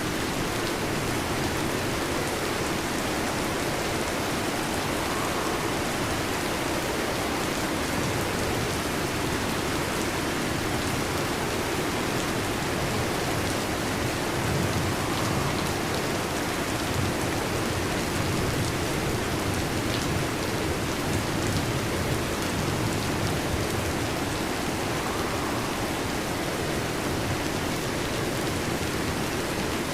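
Steady, even rain falling, a dense hiss of drops with no breaks.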